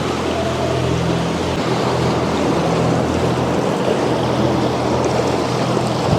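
A sailboat's engine running steadily while under way, a low hum under a continuous rush of water and air noise.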